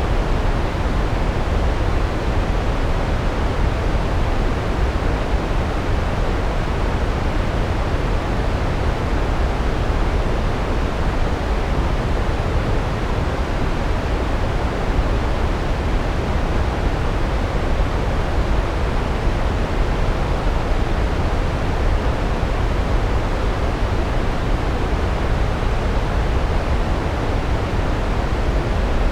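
Large waterfall: a steady, deep roar of falling water that does not change.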